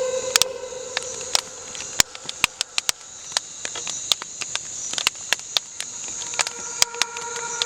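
Electronic sound-design texture: irregular sharp clicks and crackles over a steady high hiss, with a droning hum that fades out about a second in and comes back near the end.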